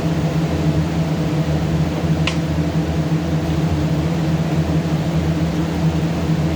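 A steady mechanical hum, a motor or fan running at a constant pitch, with one sharp click about two seconds in.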